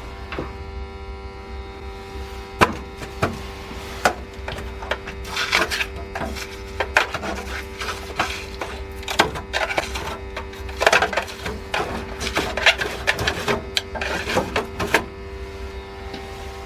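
Irregular knocks, clicks and scraping strokes of hand work, over a steady electrical hum.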